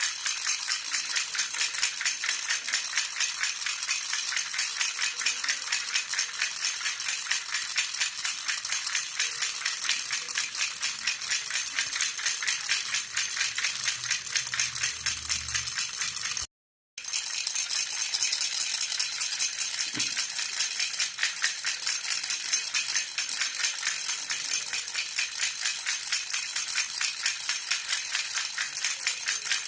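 Baby rattle (jhunjhuna) shaken rapidly and continuously, a dense jingling clatter. The sound cuts out completely for about half a second just past the middle, then resumes.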